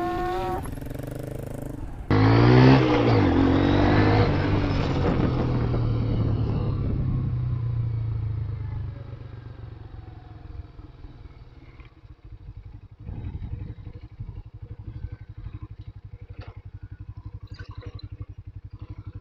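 Motorcycle engine revving up sharply about two seconds in and running hard for several seconds, then easing off. From about thirteen seconds it settles into a quieter, even putter.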